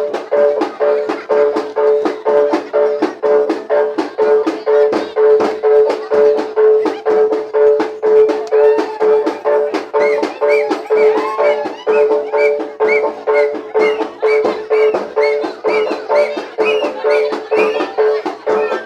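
Jaranan gamelan accompaniment playing loudly: a steady beat of about two strikes a second over a held tone, with a wavering melody line joining about ten seconds in.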